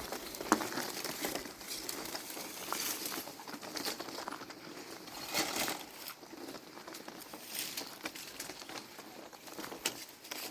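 Irregular rustling and crinkling with scattered light knocks and clicks, with a few louder bursts along the way.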